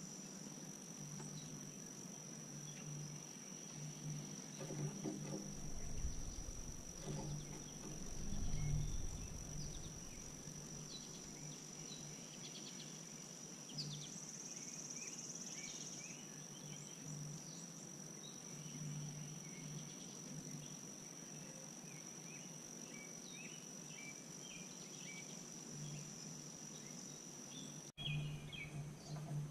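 Faint outdoor ambience: a steady high-pitched insect drone, with short bird chirps scattered throughout.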